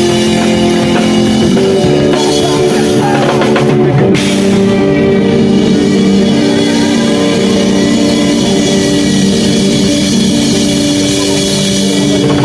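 Rock band playing: drum kit and guitar, loud and steady.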